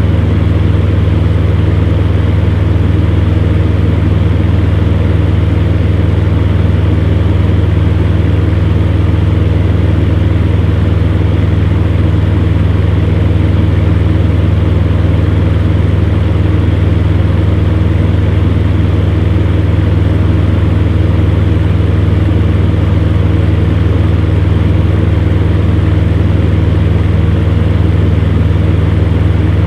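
Electric fan heater running steadily: a deep, even motor hum under the constant rush of air from its fan.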